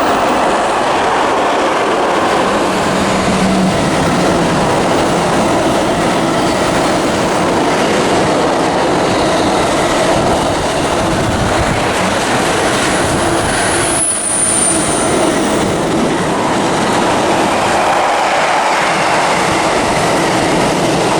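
Two Class 86 electric locomotives, 86612 and 86613, running through the station at speed with their train, a steady loud rumble and wheel clatter on the rails. A brief high-pitched wheel squeal comes about two-thirds of the way through.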